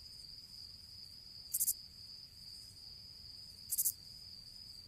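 Crickets chirping: a steady high trill with two louder chirps, about a second and a half and about four seconds in. It is the stock comic cue for an awkward silence after a remark falls flat.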